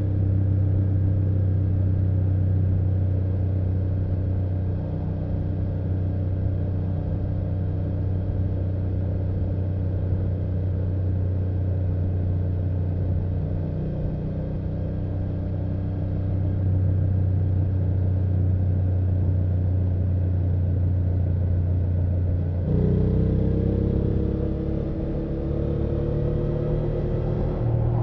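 BMW F800GS parallel-twin engine and exhaust running at a steady cruise. About 23 seconds in, the note changes abruptly and the revs climb steadily as the bike accelerates.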